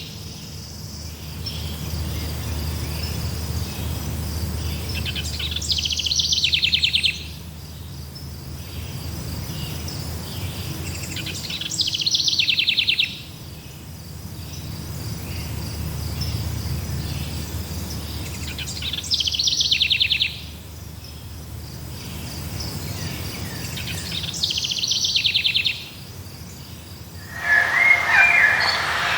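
Forest ambience: a buzzy, rapidly pulsed trill repeats about every six seconds, each lasting about a second, over a faint steady high insect whine and a low rumble. Near the end a different chirping call comes in.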